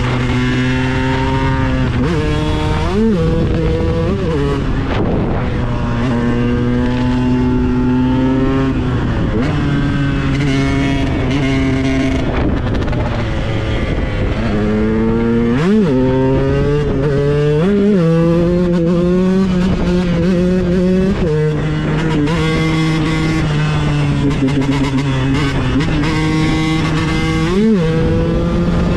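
KTM 125 EXC supermoto's two-stroke single-cylinder engine running on the move. It holds steady revs for a few seconds at a time, broken by brief sharp rises and drops in pitch and steps to new engine speeds, the pattern of throttle changes and gear shifts.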